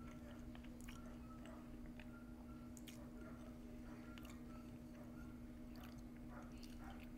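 Faint close-up chewing of a mouthful of food with the lips closed: soft, wet mouth clicks scattered irregularly, over a steady low hum.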